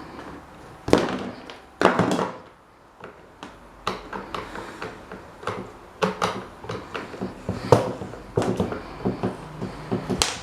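Irregular knocks and clicks from hand-work on an electric desk fan's parts, with a few sharper strikes about 1 and 2 seconds in and near the end.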